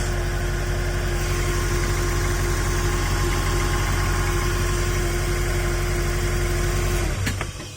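Porsche 986 Boxster flat-six engine idling steadily with the accessory drive belt removed, running without any abnormal noise, so the fault lies in the water pump pulley and not the engine. The engine cuts off about seven seconds in.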